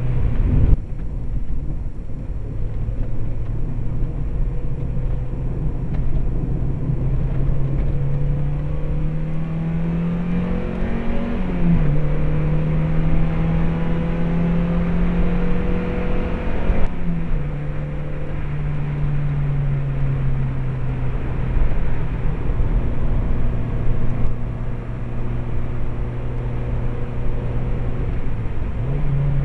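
Mazda MX-5's stock 1.8-litre four-cylinder engine heard from inside the cabin, over steady road and tyre noise. The revs climb slowly for about ten seconds, dip briefly, hold steady, then fall away about halfway through and stay lower. A sharp thump comes about a second in.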